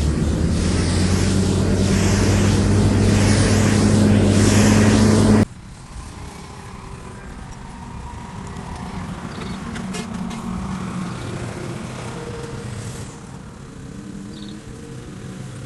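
Diesel engine of heavy earthmoving machinery running steadily and loud. About five seconds in, it cuts off abruptly to a quieter, more distant engine sound.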